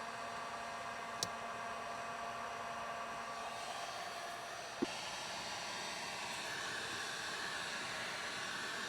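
Small blower-type motor running steadily, a hiss with a few fixed tones. Two sharp clicks break through, about a second in and again near the middle.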